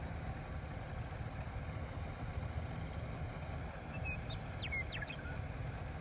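Steady low engine rumble, like a vehicle idling, with a few faint short high chirps about four to five seconds in.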